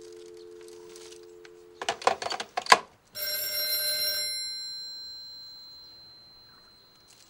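Desk telephone: a steady two-note dial tone, then the handset clatters down onto the cradle about two seconds in. About three seconds in, the phone's bell rings once for about a second and rings out slowly.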